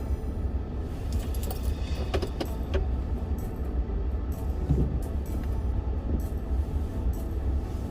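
Car engine idling, heard from inside the cabin as a steady low rumble, with a few light clicks about two seconds in.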